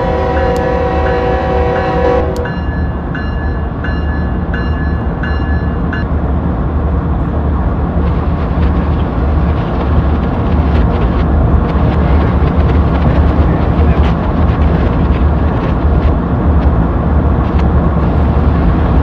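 Diesel locomotive sounds: a chord horn that stops about two seconds in, and a bell ringing at about one and a half strokes a second that stops about six seconds in. Underneath is the steady low rumble of the diesel engine.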